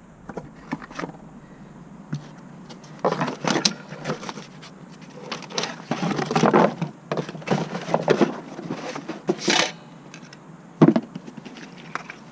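Irregular clanks, knocks and rattles of tools and parts being handled during car clutch work, with a few longer noisy stretches of a second or so.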